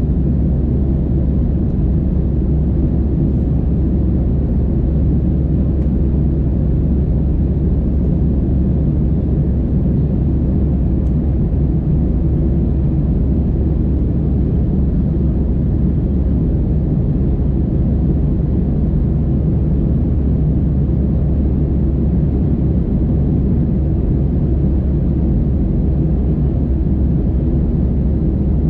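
Airbus A320's CFM56 engines heard from inside the passenger cabin: a loud, steady low drone that does not change.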